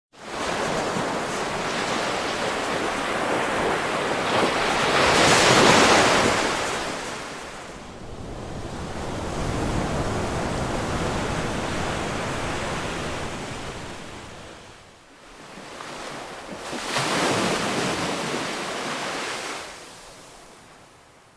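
Ocean waves washing onto a shore: a steady rush of surf that starts suddenly out of silence. Two louder waves swell and break, about five seconds in and again about seventeen seconds in, and the sound fades away near the end.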